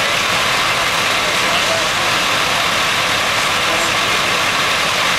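Steady noise of an idling vehicle engine, with faint voices in the background.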